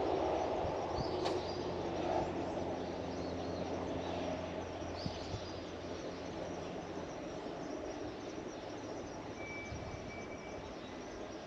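Rumble of a distant passing vehicle fading slowly away, with a few short bird chirps over it and a brief high steady note near the end.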